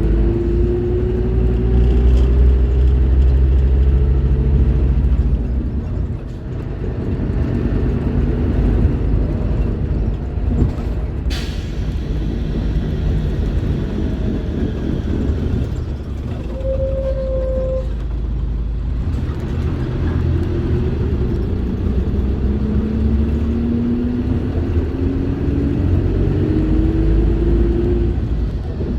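Scania K310IB bus's diesel engine pulling under load, its pitch rising for the first few seconds, easing off around six seconds in, then climbing again through the second half. A sharp click comes a little before halfway.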